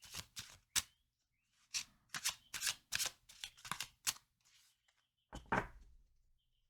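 A deck of cards being shuffled by hand: a quick run of crisp card-on-card slaps and riffles, then a couple of louder handling strokes. Faint bird chirps come in near the end.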